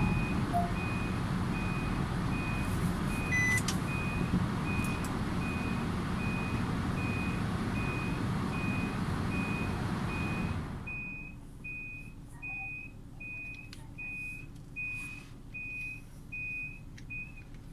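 Automatic car wash machine running with a steady rushing noise and a repeating electronic beep, about two and a half beeps a second. About eleven seconds in, the rushing stops while the beeping goes on.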